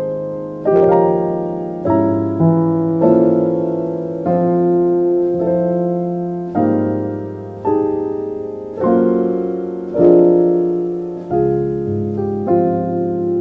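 Slow, soft piano music: a chord struck about once a second, each left to ring and fade before the next.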